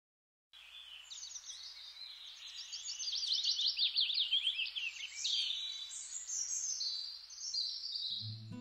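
Songbirds singing: a dense run of quick, high chirps and trills over a faint steady hiss. Acoustic guitar music comes in near the end.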